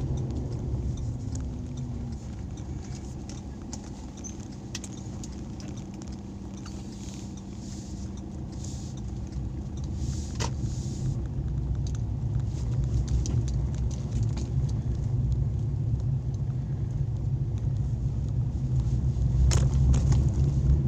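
A moving road vehicle's engine and road noise, a steady low rumble that grows louder through the second half, with occasional light clicks and rattles.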